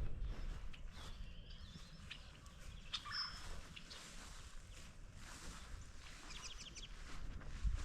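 Wild birds calling in short high chirps, a few about three seconds in and a quick run of them near the end, over a low outdoor rumble.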